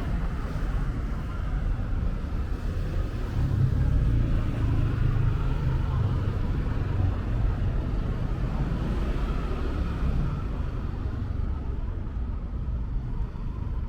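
Low rumble of road traffic, swelling a few seconds in as a vehicle passes and easing off near the end.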